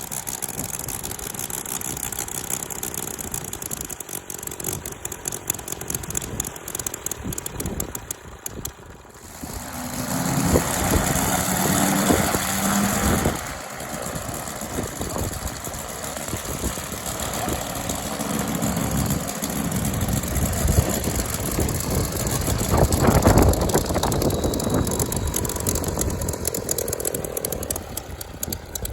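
UML-160 five-cylinder methanol glow rotary engine on a 1/3-scale Nieuport 11 model running on the stand, turning a 32x14 propeller. It runs steadily, is opened up louder for a few seconds about ten seconds in, drops back, then rises again in the second half.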